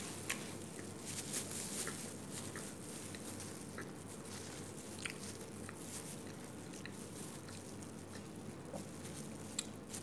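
A person chewing a mouthful of burger with the mouth closed, with small, scattered wet mouth clicks and smacks.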